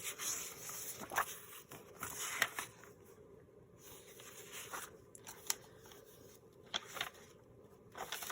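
Paper rustling and sliding as loose papers and book pages are handled and stacked, with a few light taps and clicks.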